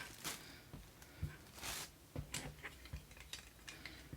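Faint scattered clicks and taps of a plastic smartphone holder being handled, about one every half second to second.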